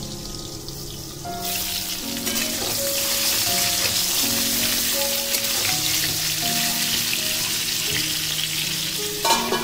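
Pointed gourd pieces sizzling as they fry in hot mustard oil in a wok, a metal spatula turning them now and then. The sizzle gets much louder about a second and a half in and stays that way, with background music underneath.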